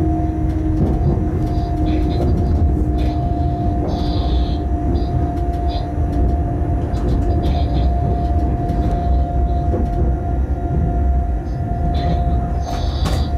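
Freight train running through a set of points: a steady rumble with a held whine and irregular clicks and knocks as the wheels cross the switches and crossings.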